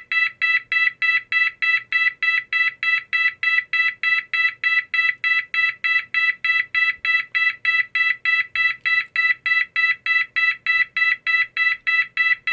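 GE AS363 alarm signal sounding a 660 Hz tone pulsed 0.15 seconds on and 0.15 seconds off, the Swedish emergency tone: a fast, even, buzzy beeping about three times a second.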